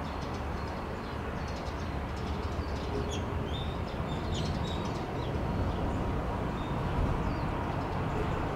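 Small birds chirping and twittering in short high calls, mostly in the first half, over a steady low background rumble.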